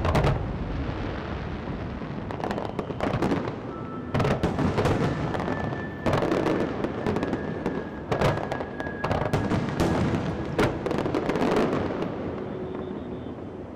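Aerial fireworks going off in a rapid string of sharp bangs and crackles over a continuous rumble, with music playing underneath.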